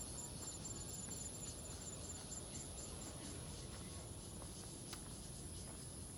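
Insects calling: a very high chirp repeating evenly about five times a second over a steady, high-pitched trill.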